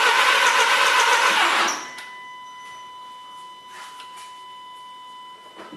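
A 2008 VW Golf 1.4 TSI engine cranking on the starter without catching, cutting off about two seconds in. A steady high-pitched whine carries on afterwards, with a few faint clicks. The whine is the unexplained noise from a part in the engine bay, which the owner takes for the source of the no-start.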